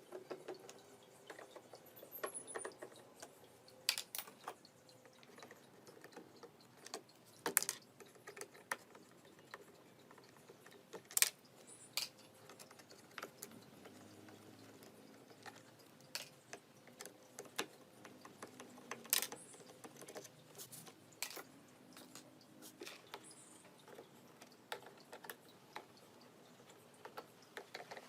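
Irregular sharp clicks and light knocks of small parts and hand tools being handled during repair work on a children's ride-on toy car, with a few louder knocks among them.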